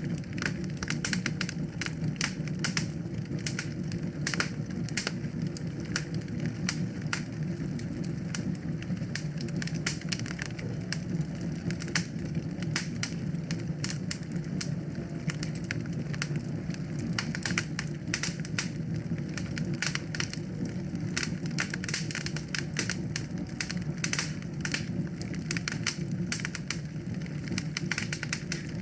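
Wood fire burning in a fireplace: dense, irregular sharp crackles and pops over a steady low rumble of the flames.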